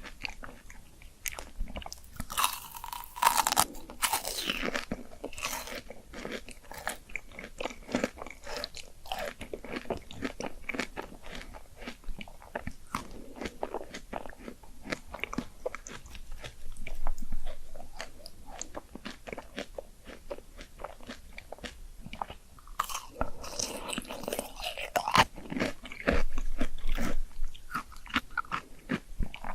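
A person biting into and chewing crisp fruit close to the microphone, ASMR-style: dense crunching all through, with louder bursts of crisp bites a few seconds in and again near the end.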